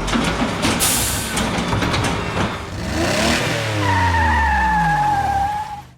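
Cartoon sound effects of a car engine revving with tyres skidding. About three seconds in, the pitch falls in several glides as the engine winds down, and a steady high tone sounds for the last couple of seconds before everything cuts off.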